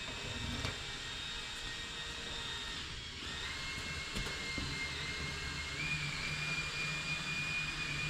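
Power drill spinning a 3M coarse sanding disc against a plastic headlight lens, grinding off the rough, cloudy surface: a steady motor whine over a sanding hiss. The whine changes pitch about three seconds in.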